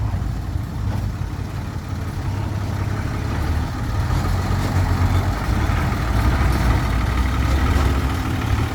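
Heavy diesel engine idling with a steady low hum, slightly louder in the middle.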